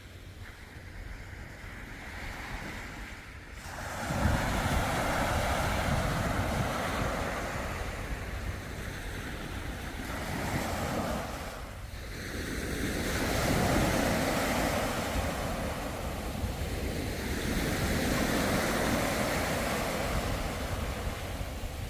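Sea waves washing onto the shore, a rushing sound that swells and falls back in several surges, the first coming about four seconds in. Wind buffets the microphone.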